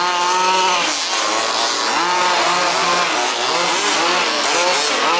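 Several 1/5-scale RC buggies' small two-stroke petrol engines revving up and down, overlapping as the cars race past, with the pitch rising and falling every second or so.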